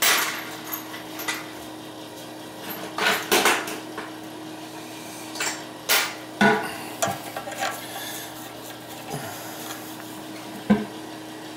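Metal tools clinking and scraping against a toilet's closet bolt as its rotted nut is worked loose: scattered irregular clinks and knocks.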